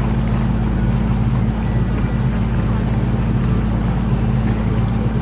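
Canal tour boat's engine running steadily at cruising speed: an even, low drone with a constant wash of noise over it.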